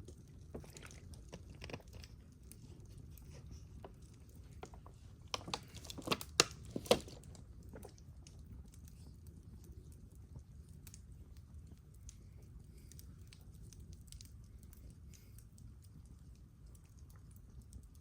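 Wood campfire crackling over a low steady rumble, with a cluster of sharp, louder pops about six to seven seconds in.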